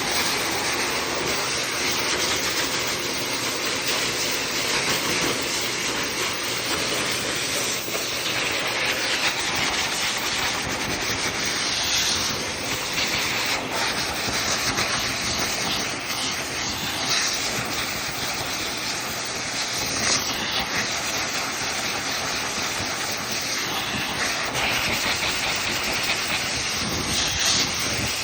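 Pet blow dryer blowing air in a steady hiss, the hiss growing sharper now and then as the airflow shifts.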